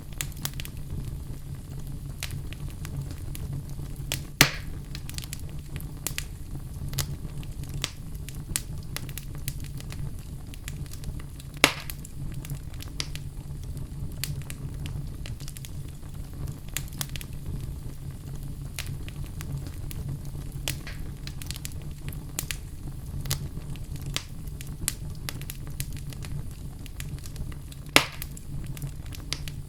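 Wood fire crackling in a fireplace: a steady low rumble of flame under many small crackles, with three louder, sharp pops from the burning logs.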